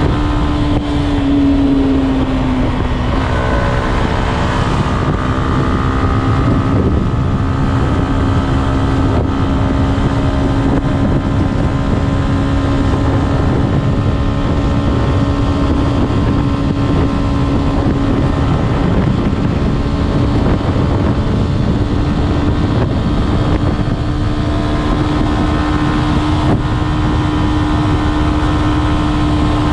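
Stock Yamaha Y15ZR's single-cylinder four-stroke engine running at steady cruising revs while riding; the engine note drops slightly about two seconds in, holds steady, and climbs a little near the end. Heavy wind rumble on the microphone.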